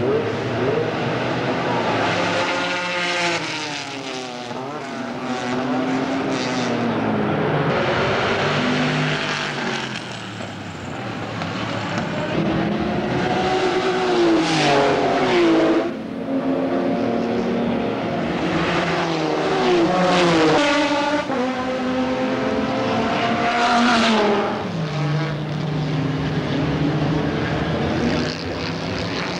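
Several GT race cars passing one after another at speed, their engines rising and falling in pitch through gear changes and pass-bys, the loudest passes about halfway through and near the end.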